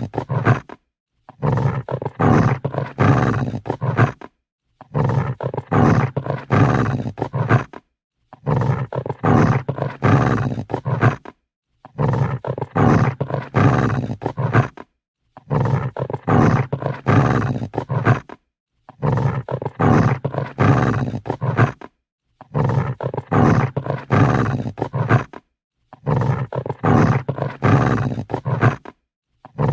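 Angry dog growling: a low, rumbling growl about three seconds long, repeated over and over with a half-second of silence between each one.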